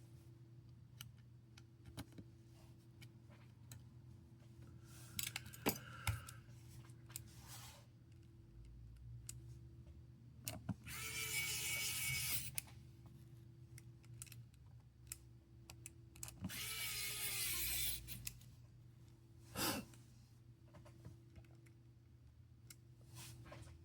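Small clicks and taps of tools and phone parts being handled during reassembly, over a steady low hum. Twice a small power tool runs for about a second and a half.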